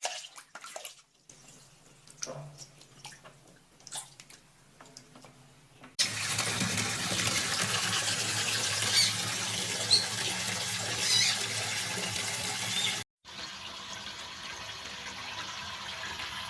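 Tap water running for a parrot's bath. It starts suddenly about six seconds in after a few faint clicks, with a few short high chirps over it, and after a brief break near thirteen seconds it runs on more softly.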